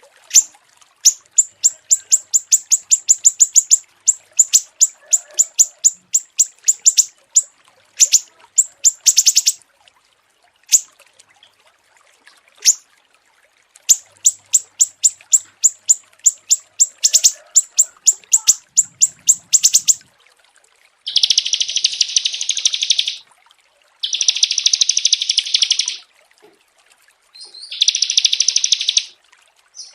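Small songbirds calling. Rapid runs of sharp, high chirps fill the first two-thirds. Then come dense, buzzy trills in bursts of about two seconds each, with short gaps between.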